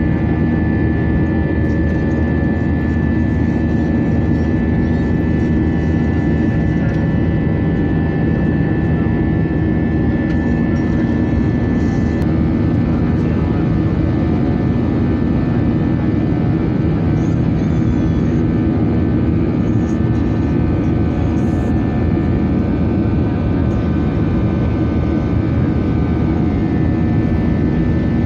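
Airliner cabin noise in flight after takeoff: the engines and rushing air make a steady loud drone, with a few steady whining tones over it and no rise or fall.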